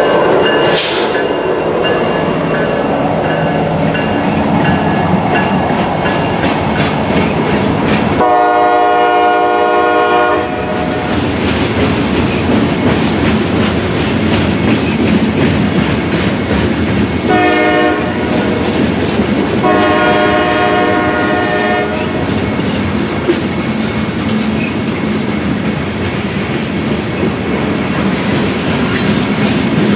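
Norfolk Southern freight train passing close by: the trailing SD60E diesel locomotive runs past, then the freight cars roll by with a steady rumble and clacking wheels. A train horn sounds a long blast about eight seconds in, then a short and a long blast around eighteen to twenty-two seconds.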